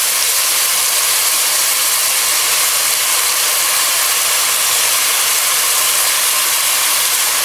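Hot desi ghee sizzling in a pot under freshly added soaked rice and moong dal: a loud, steady hiss.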